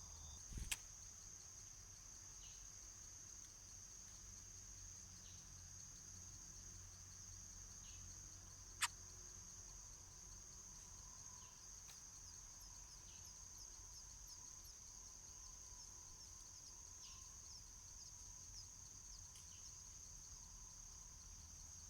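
Steady high-pitched insect drone, with faint short chirps every few seconds. Two sharp clicks stand out, one just under a second in and a louder one about nine seconds in.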